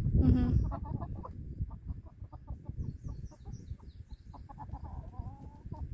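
Young chickens clucking: one short loud call at the start, then a run of quick short clucks, with a brief wavering call near the end.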